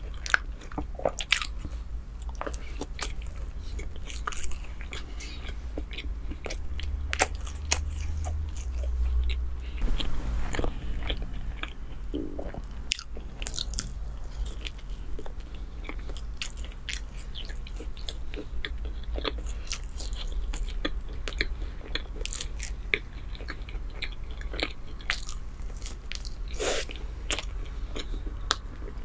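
Close-miked eating of chocolate bread: biting and chewing, with many short, sharp wet mouth clicks.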